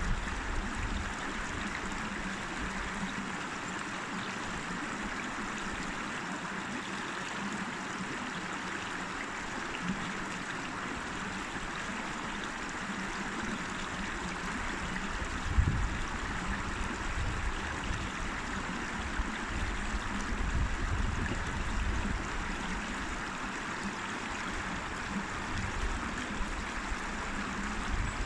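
A river running steadily, with an even rushing and gurgling of water. Brief low rumbles come about halfway through and again near the end.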